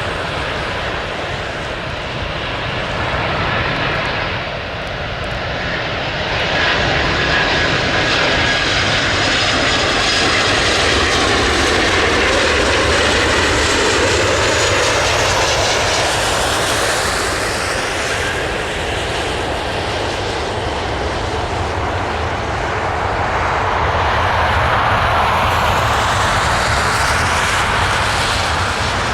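A jet airliner's engines heard as the plane flies past at close range: a loud, continuous rushing noise that swells twice, with sweeping rises and falls in pitch as it passes.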